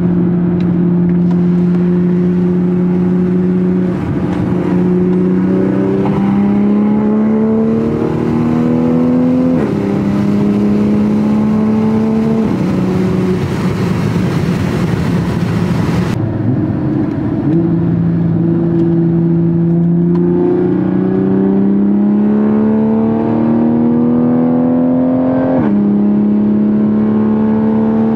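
Toyota Supra with a Tomei aftermarket exhaust pulling through the gears: the exhaust note climbs in pitch and drops sharply at each upshift, three shifts in the first half. It eases into a steady drone for a few seconds, then climbs again to another shift near the end.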